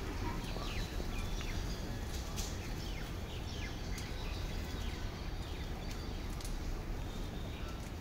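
Faint bird chirps, short falling notes scattered throughout, over steady background noise with a low hum.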